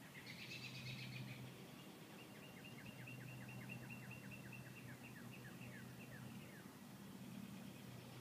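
Faint song of a bird: a brief chirping phrase near the start, then an even series of about twenty quick down-slurred whistled notes, roughly four a second, lasting several seconds. A faint steady low hum runs underneath.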